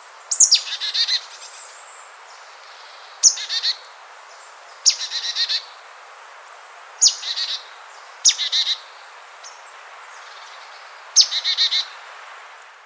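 A songbird singing the same short phrase over and over, six times: each phrase opens with a sharp, high downward-sweeping note and runs into a quick trill, with pauses of a second or two between phrases. A steady hiss sits underneath.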